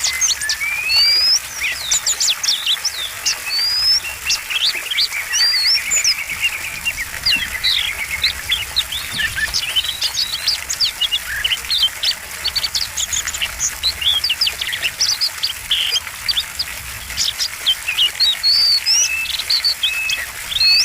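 Oriental magpie-robin (kacer) singing a long, varied song of quick whistles, chirps, slurred notes and trills, with mimicked phrases (isian) worked in.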